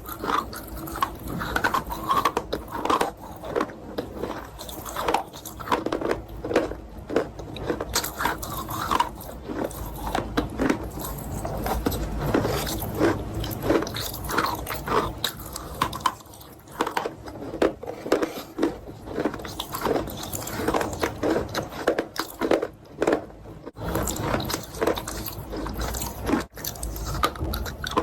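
Close-miked chewing and biting of chalk eaten with a chalk paste: a dense, continuous run of short, crisp crunches mixed with wetter chewing.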